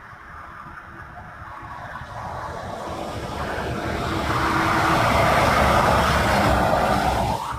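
A motor vehicle passing on a rain-soaked highway: the hiss of tyres through the wet road and the engine rumble swell to a peak about five to six seconds in, then fall away near the end.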